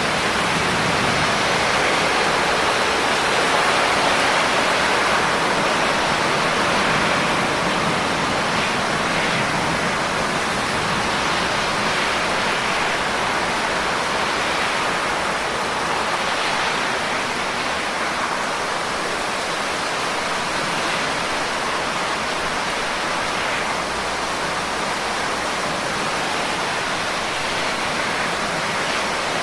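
Steady, dense rainfall: a continuous even hiss of rain with no distinct single drops standing out.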